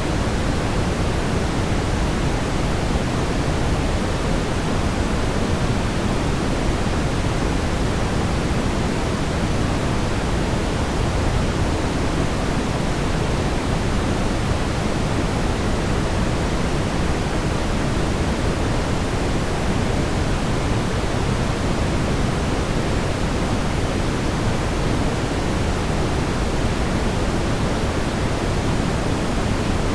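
Brown noise: a steady, even rumbling hiss, strongest in the low end and rolling off toward the highs, with no change.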